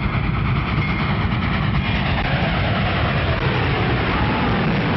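A vehicle running: a steady, dense rumbling noise with a loud low end and no breaks.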